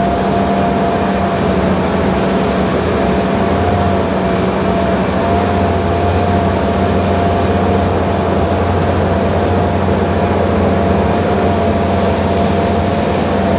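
John Deere self-propelled forage harvester chopping corn silage, running steadily: a heavy diesel drone under a constant high whine that wavers slightly.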